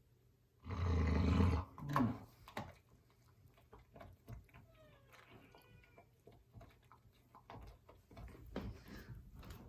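A dog's growling grumble about a second long, then a shorter one, followed by faint high whines and small scuffling clicks, typical of a dog guarding an object it does not want taken.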